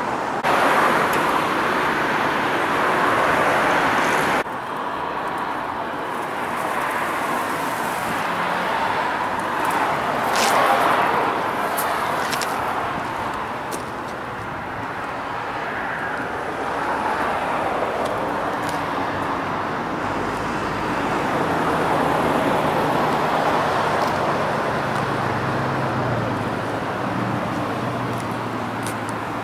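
Aston Martin DBS Volante's V12 engine idling steadily, with the sound dropping abruptly at about four seconds in.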